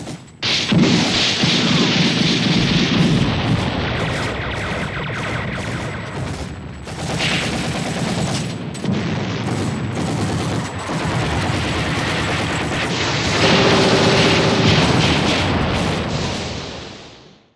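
Battle sounds: rapid gunfire and machine-gun fire mixed with booms of explosions, dense and loud. It fades out near the end.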